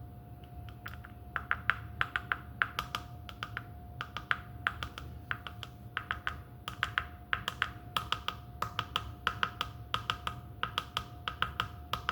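Rapid, irregular light clicks and taps in short clusters, over a faint steady hum.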